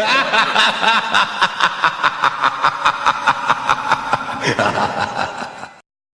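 Laughter sound effect: a person laughing in quick, even 'ha-ha' bursts, about five a second. Near the end it drops to a lower, trailing laugh, then cuts off abruptly.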